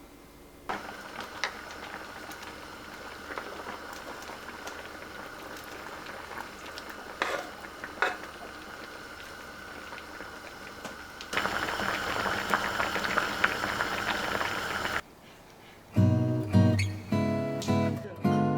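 Food sizzling in a Lodge cast iron pan, with a few light clicks of a utensil on the pan. The sizzle gets louder about 11 seconds in and stops abruptly about 4 seconds later. About a second after that, strummed acoustic guitar music begins.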